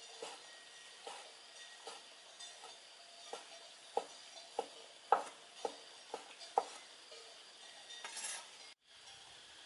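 A series of sharp taps and clinks, about one every two-thirds of a second and loudest in the middle, followed near the end by a short hiss that cuts off suddenly.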